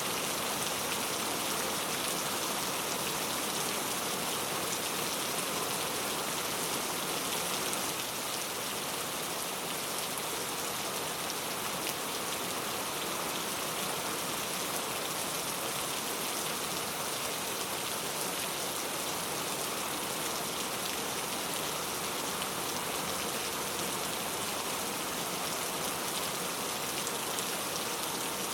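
Very heavy rain falling steadily, a dense even hiss of drops on surfaces.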